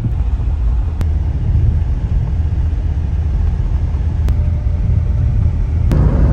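A car driving on the road: steady low road and engine rumble, with a few faint clicks. Near the end the noise grows fuller and brighter.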